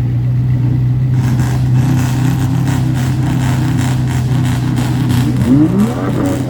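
Sports car engine and exhaust running loud with a steady low note, then revving hard near the end, its pitch sweeping sharply upward.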